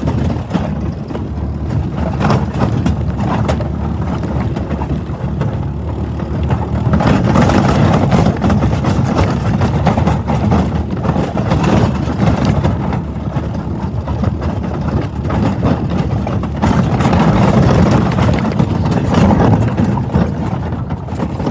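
Four-wheeler (ATV) engine running while towing a wagon, a continuous low, noisy rumble with many small knocks; it grows louder for a few seconds about a third of the way in and again near the end.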